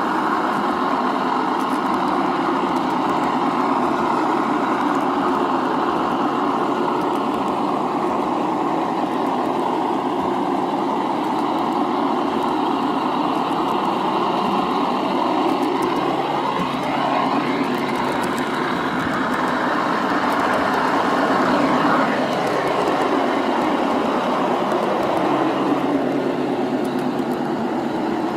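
ESU LokSound decoder in a G scale model locomotive playing a GE Dash-9 diesel engine sound through its small speaker, running steadily, mixed with the model's wheels running on the track. A brief rising tone comes through about halfway.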